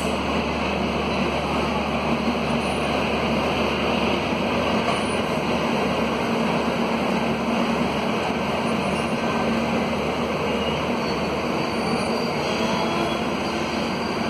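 Double-decker passenger train coaches rolling past on the track, a steady rumble and rush of wheels on rails.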